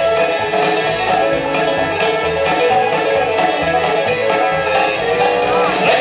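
Live bluegrass band playing an instrumental break, led by banjo with fiddle over a steady low bass beat.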